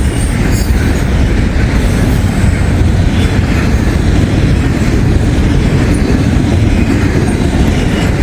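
Intermodal container freight train rolling past close by: a loud, steady rumble and clatter of wheels on rail.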